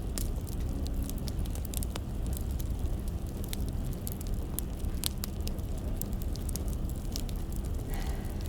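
Firewood fire crackling, with irregular sharp pops and snaps over a steady low rumble.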